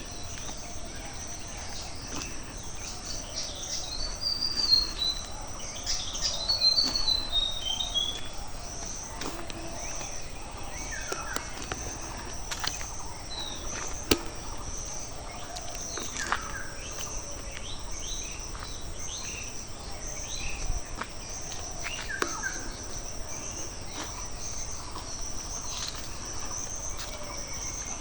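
Countryside ambience: a steady high-pitched insect drone with birds calling over it, the loudest being two quick descending runs of notes a few seconds in, then scattered short chirps, and one sharp click about halfway.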